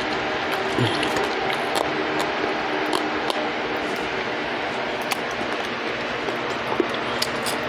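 Close-up eating sounds: chewing and scattered short wet mouth clicks while deep-fried trout is eaten off the bone by hand, over a steady background hiss.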